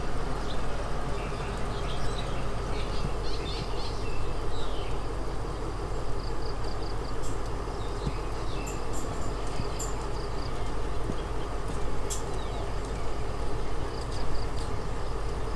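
Steady rumble of a Thai ordinary passenger train heard from inside a third-class coach, with birds chirping over it in the first few seconds and sharp high ticks in the second half.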